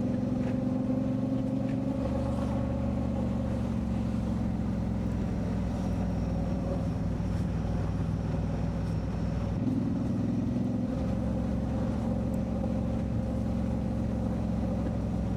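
Motorcycle engine running steadily under way, with road and wind noise. The engine note shifts about two seconds in and again around ten seconds in, as with a change of throttle or gear.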